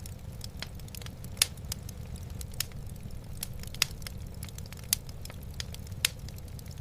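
Wood fire burning in a fireplace, crackling with frequent sharp pops, several of them louder, over a steady low rumble.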